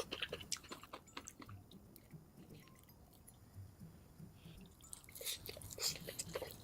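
Close-miked chewing, sped up to double speed: quick wet clicks and crunches of food in the mouth, thinning out in the middle and picking up again near the end.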